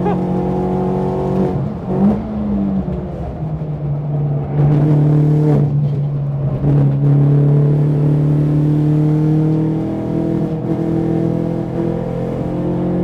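BMW 116i race car's engine pulling at full throttle, heard from inside the car, its note climbing slowly and dropping about ten seconds in as it shifts up, with a few brief breaks and knocks along the way.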